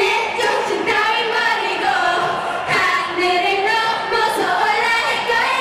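Many voices singing a melody together a cappella, with no instruments or backing track: the singers and a concert crowd singing along after the sound system has failed.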